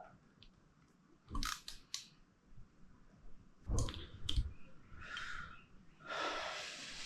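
Small carburettor parts being handled and fitted on a workbench: sharp clicks about a second and a half in, a few knocks near the middle, then two short hisses in the last two seconds.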